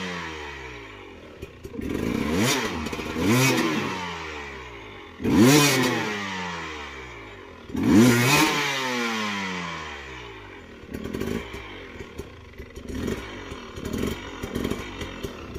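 Trail motorbike engine revving in about five hard surges, the pitch climbing and falling each time, as it labours up a steep, rough bush track. After about ten seconds the revving eases into quieter clattering.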